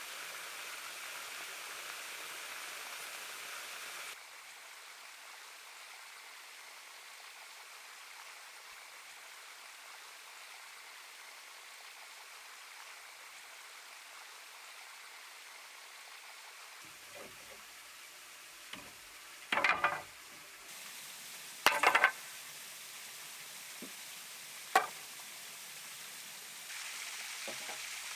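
Steady outdoor hiss like running water or rain, which drops in level and comes back at abrupt edits, with a scattered series of sharp knocks and taps in the last third, two of them loud and close together.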